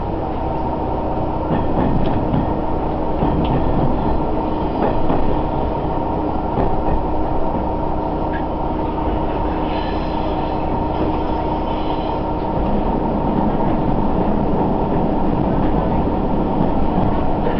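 Sanriku Railway diesel railcar running along the line, heard from inside the car: a steady rumble of engine and wheels on rail with a steady hum and occasional faint clicks.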